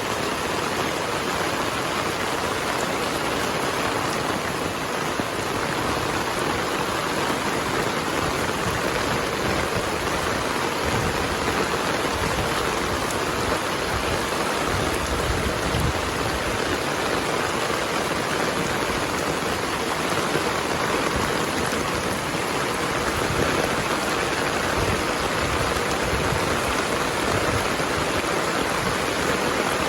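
Heavy rain falling steadily, an even, unbroken hiss of drops on surfaces with no thunder in this stretch.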